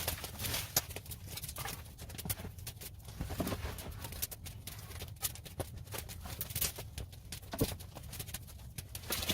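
Sweeping up a floor: quick, irregular brushing strokes, several a second.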